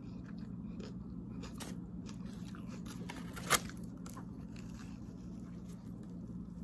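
Close-up eating sounds: biting and chewing a sandwich, with small crackles and clicks, over a steady low hum. One sharp click about three and a half seconds in.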